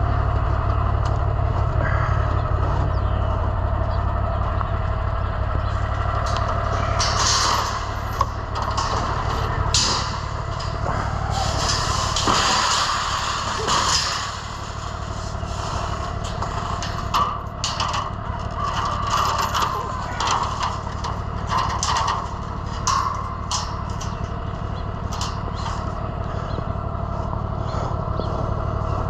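Utility vehicle engine running steadily, with irregular bursts of clatter and knocking over it through the middle.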